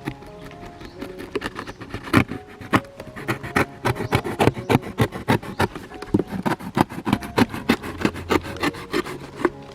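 Rapid, irregular clicks and scrapes of wood being worked by hand, several a second, thickening about a second and a half in, over faint background music.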